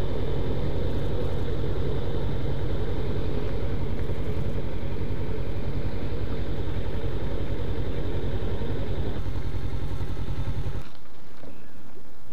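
Kawasaki Ninja's parallel-twin engine running steadily under wind noise while riding. The engine sound stops abruptly about eleven seconds in, leaving a steady hiss.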